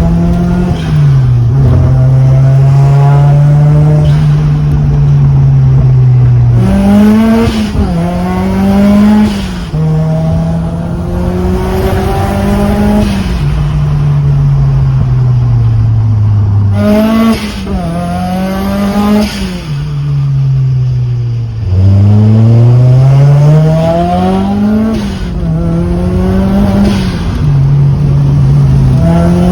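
Mitsubishi Lancer Evolution IV's turbocharged four-cylinder engine pulling hard through the gears. The pitch climbs, drops sharply at each shift and climbs again several times, with one long climb from low revs near the end.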